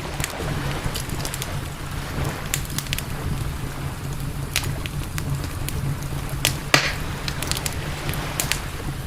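Campfire crackling, with irregular sharp pops of burning wood and one louder pop about two-thirds of the way through, over a steady low rumble.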